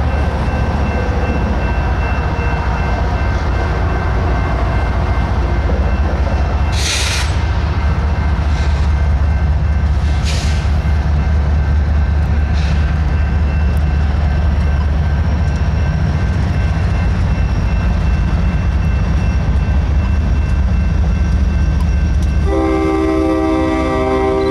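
BNSF diesel locomotives approaching with a steady, loud engine rumble and a few brief hisses. About two seconds before the end, a locomotive air horn starts sounding a multi-note chord.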